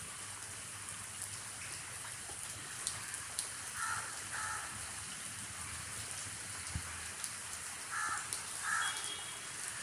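Steady rain falling. A bird calls twice over it, each time as two short calls in quick succession, once about four seconds in and again near the end.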